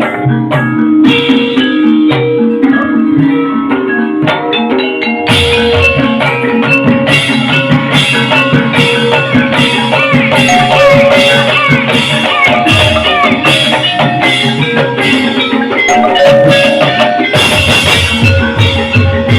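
Javanese gamelan music accompanying an ebeg dance: struck tuned percussion playing interlocking notes over steady drum strokes, growing fuller and brighter about five seconds in.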